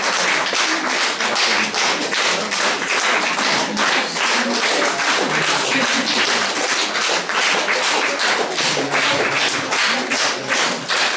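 Audience applauding, the claps falling into a steady rhythm together.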